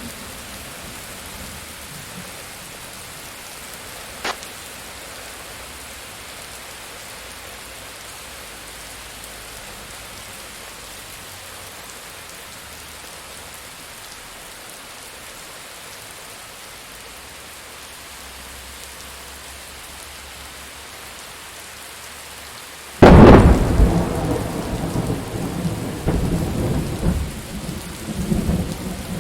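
Steady rain falling, with a single sharp click about four seconds in. Near the end a sudden loud thunderclap breaks in and rolls on as a rumble.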